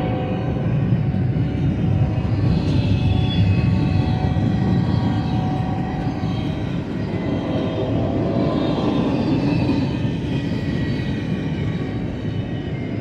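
Double-stack intermodal container train's well cars rolling past, a steady loud rumble of steel wheels on rail. Faint high-pitched wheel squeal comes and goes over the rumble.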